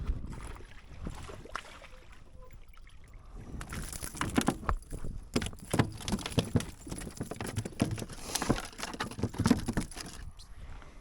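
Irregular knocks and rattles of gear being handled on a fishing kayak. They are sparse at first, then come thick and fast from about a third of the way in until near the end.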